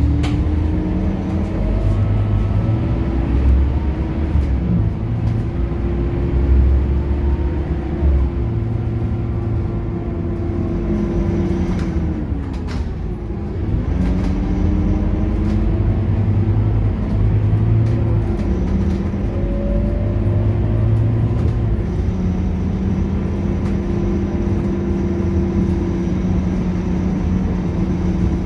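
Scania K230UB city bus's diesel engine and ZF automatic gearbox running under way, their pitch rising and falling with the bus's speed and gear changes. About 12 to 13 seconds in the pitch drops sharply to a low point, then climbs again as the bus pulls away.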